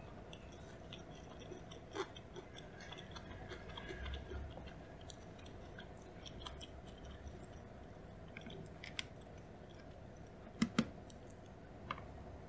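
Close-miked chewing of sushi (salmon maki with cucumber), soft and low, with a few sharp clicks scattered through, two of them close together near the end.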